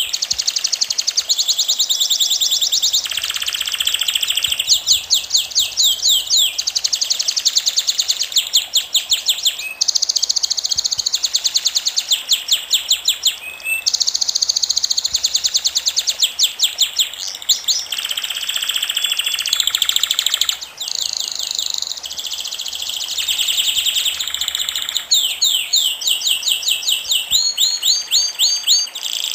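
Birdsong: fast trills of short, high chirps, ten or more to the second, in phrases of a second or two that follow one another almost without pause.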